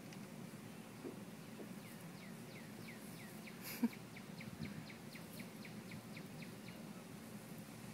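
A bird calling faintly: a run of short, falling chirps, about four a second, going on for several seconds. A single sharp click sounds about a third of the way in.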